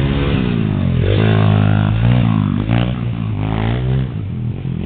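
Small off-road engine revving up and down: the engine note falls over the first second, then climbs sharply about a second in and twice more near the end as the throttle is opened again.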